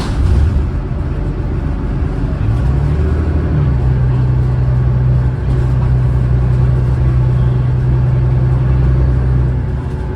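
Cummins ISLe straight-six diesel engine of an Alexander Dennis Enviro500 double-decker bus, running hard under heavy acceleration. Its pitch rises about three seconds in, holds high and steady for about six seconds, then drops near the end.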